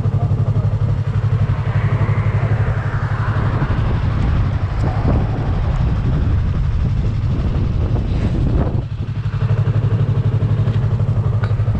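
Motorcycle engine running steadily with an even low pulse, its level dipping briefly a little past the middle.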